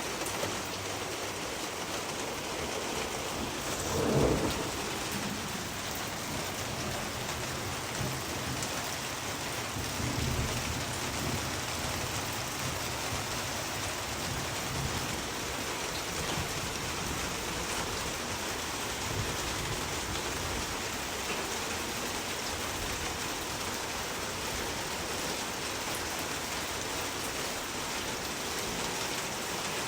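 Steady rain hiss, with a short, loud rumble about four seconds in and a softer, deeper rumble around ten seconds in.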